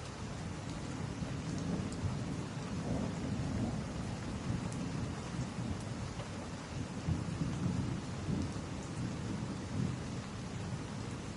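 Steady rain over a continuous low, fluctuating rumble, with a few faint pops of a crackling wood fire.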